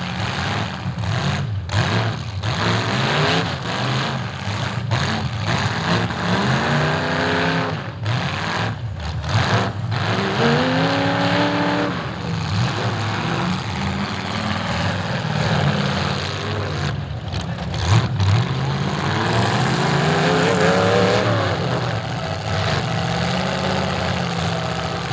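Demolition derby car engines running and revving, the pitch climbing and dropping several times over a constant low rumble.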